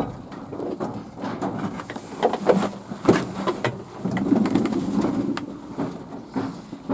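Fantail pigeons cooing in low, repeated murmurs, thickest about four to six seconds in, with scattered sharp clicks.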